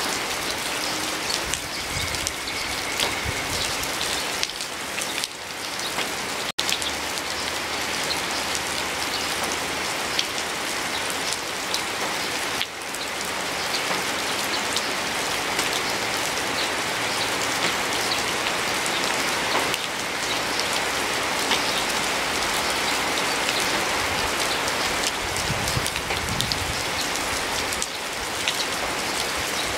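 Steady rain falling, with many close drops ticking through the hiss. The sound cuts out for an instant about six and a half seconds in.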